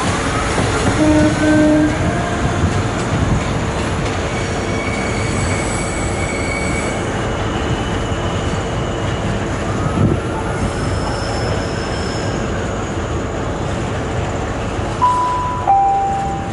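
Class 150 Sprinter diesel multiple unit running over curved track and pointwork, its wheels squealing in thin high tones over the steady rumble of the train. Near the end a short two-note horn sounds, high then low.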